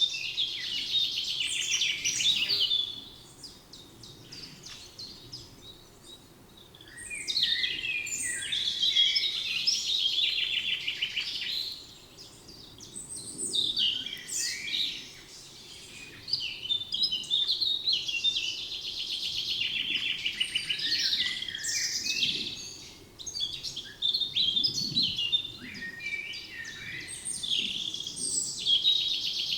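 Songbirds singing in a spring forest: several bouts of fast, trilling and warbling song a few seconds long, with brief pauses between them.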